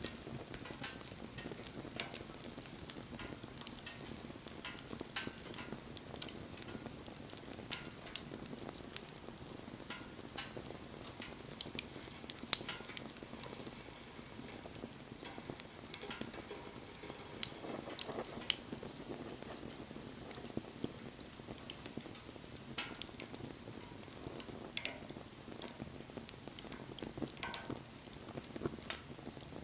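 Wood campfire burning: a steady low hiss with irregular sharp crackles and pops throughout, one louder snap near the middle.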